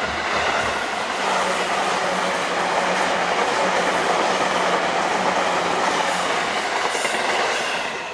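JR 251 series Super View Odoriko electric train passing close by on a curve: a loud, steady rush of wheels on rail with a low hum underneath. The sound falls away near the end as the last car clears.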